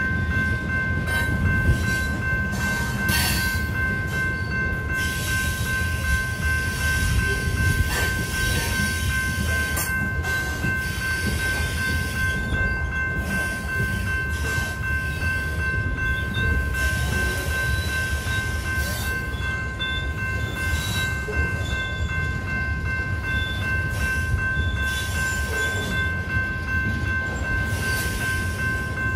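Covered hopper cars of a freight train rolling past with a steady low rumble of wheels on rail, scattered clicks and a few short high squeals in the second half. Through it, the crossing's General Signals electronic bell rings without pause.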